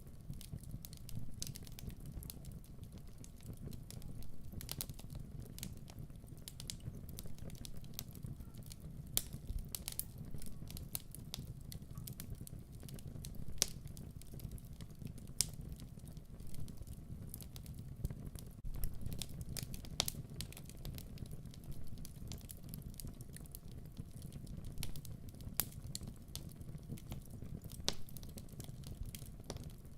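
Wood fire crackling in a fireplace: irregular sharp pops and snaps, a few each second, over a steady low rumble of burning.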